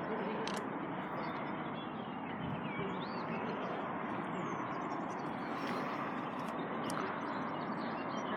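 Outdoor ambience: a steady, even background hiss with a few faint bird chirps, about three seconds in and again near the middle.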